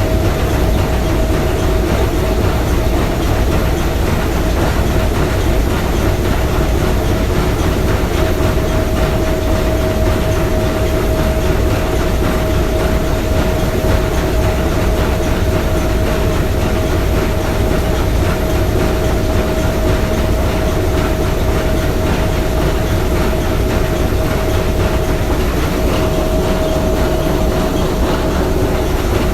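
S.S. Bohuslän's three-cylinder triple-expansion marine steam engine running steadily: a dense low rumble with a steady tone held above it.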